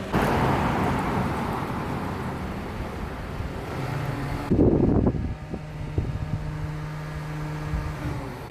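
Road vehicle and traffic noise in short edited clips, with a steady low engine hum in the second half.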